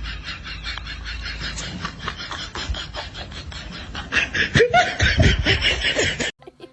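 A person laughing in quick pulses, loudest near the end, then cut off suddenly.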